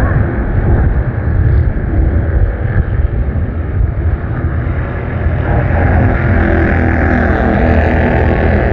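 Bandolero race cars lapping an oval, their small engines running at speed together. About halfway through, the engine note becomes clearer and louder as a pack of cars comes closer.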